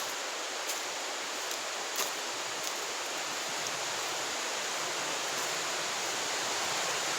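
Steady rushing roar of a waterfall on a brook, growing slightly louder toward the end, with a few faint ticks.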